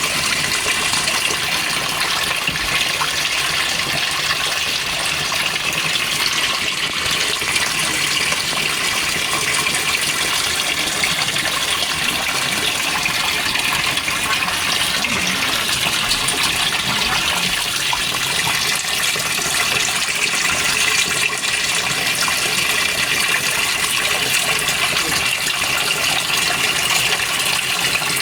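Water rushing steadily into the washer tub of a GE Spacemaker GUD24ESSM1WW laundry center as it fills for the rinse.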